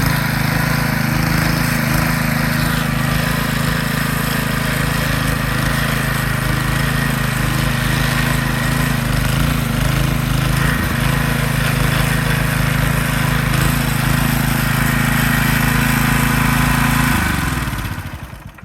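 Briggs & Stratton small engine on a lawn edger running steadily at a constant speed after a carburetor rebuild. About 17 seconds in it is shut off, and its pitch falls as it winds down to a stop.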